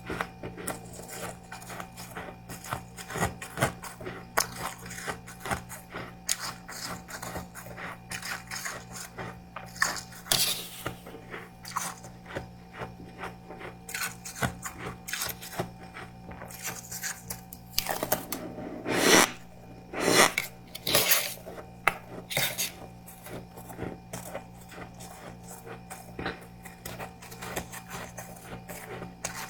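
Close-up crunching and chewing of soft freezer frost, a dense run of small crisp crackles with louder bites about ten seconds in and again near two-thirds of the way through.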